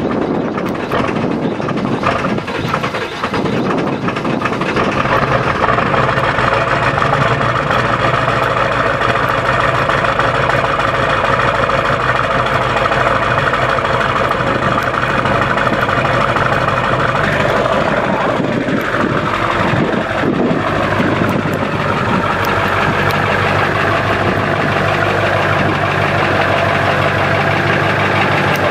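Ford 7.3 L Powerstroke V8 turbodiesel running at idle on a cold start, steady throughout, with a brief shift in pitch about 18 seconds in.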